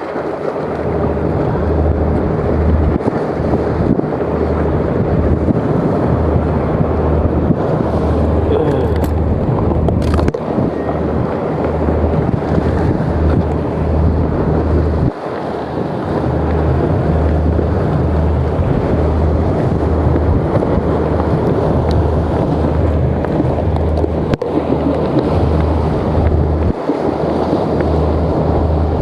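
Strong wind buffeting the microphone: a loud, continuous rumbling rush with uneven low gusts.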